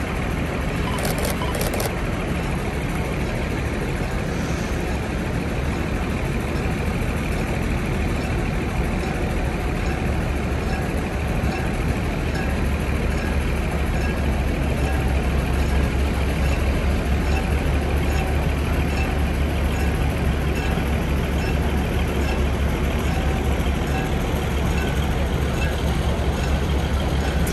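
DR2100-series diesel railcar running, a steady low engine rumble that grows louder about halfway through.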